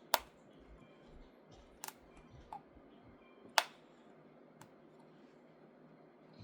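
Scissors snipping through the plastic ties that hold toys to their packaging: three sharp snips about a second and a half to two seconds apart, then a fainter click.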